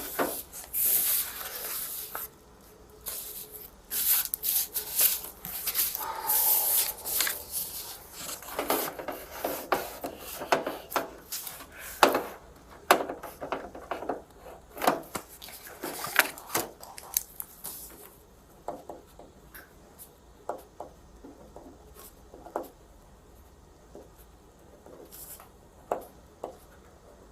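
Rustling and handling noises with many scattered clicks and light knocks, busy for most of the stretch and then thinning out to occasional clicks near the end.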